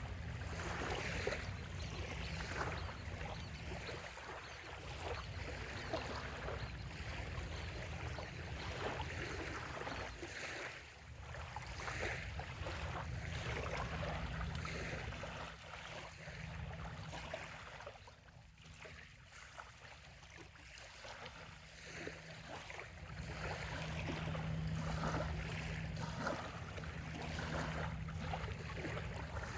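Small waves lapping and splashing gently at a sandy bay shoreline in irregular washes. There is a quieter lull about two-thirds of the way through, and a faint steady low hum runs underneath.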